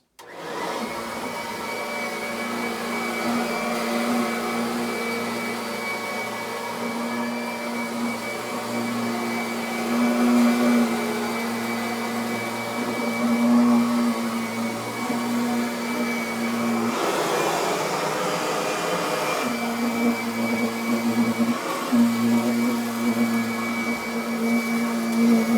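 Kirby Avalir upright vacuum switched on and running steadily over carpet, post-vacuuming after a shampoo. It comes up to speed within the first second. Its hum gives way to a rougher rush for a couple of seconds about two-thirds of the way through, then settles back.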